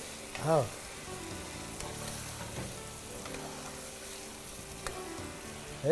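Fish pieces frying in oil with onion and tomato in a pot, sizzling steadily while a spoon stirs them, with a couple of light spoon clicks. A brief voice sounds about half a second in.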